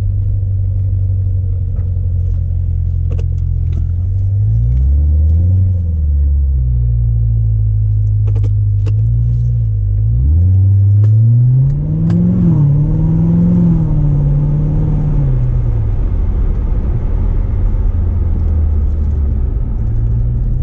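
2016 Corvette Z06's supercharged 6.2-litre LT4 V8 running at low revs on the move. The engine note rises briefly about four seconds in, then climbs harder from about ten seconds, holds, and falls away again near sixteen seconds before settling back to a steady low rumble.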